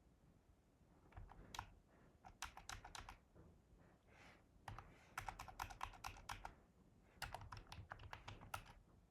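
Computer keyboard typing, faint, in several quick bursts of keystrokes separated by short pauses.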